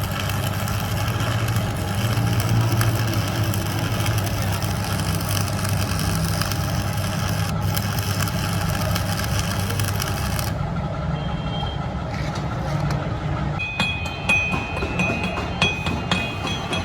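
Workshop machinery running steadily with a low hum under a dense grinding noise. About ten seconds in the high hiss drops away, and near the end sharp clicks and a high ringing tone come in.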